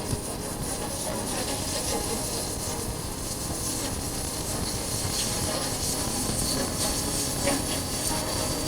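Steady wind rush and road rumble while riding a Honda CB400X motorcycle, picked up by a chest-mounted action camera's microphone, with a short knock at the very start.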